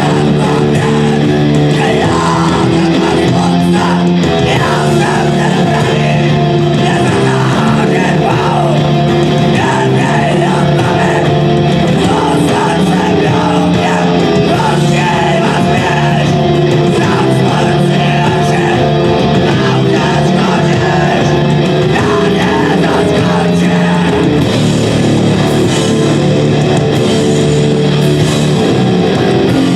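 Live band playing loud, dense rock on electric guitar with vocals, the chords shifting every few seconds without a break.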